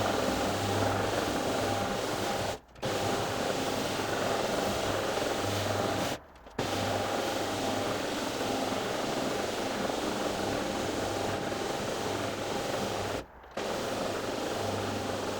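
Carpet-cleaning machine running with a steady motor drone and a hum. The sound drops out abruptly three times for a fraction of a second.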